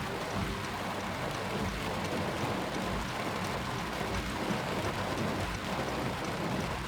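Heavy rain falling steadily on a car, heard from inside it, with a low rumble underneath.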